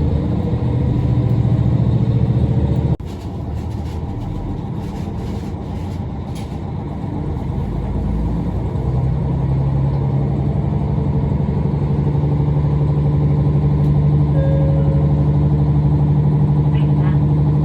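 Diesel railcar engine running with a steady low drone. The sound breaks off abruptly about three seconds in and goes on quieter, then the engine note strengthens and holds loud and steady through the second half.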